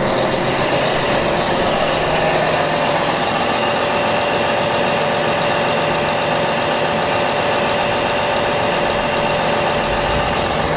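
2000 Volvo semi truck's diesel engine idling steadily, left running to charge the battery.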